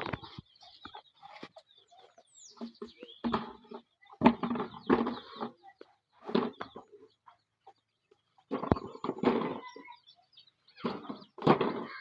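Chickens clucking in short, irregular bursts a second or two apart.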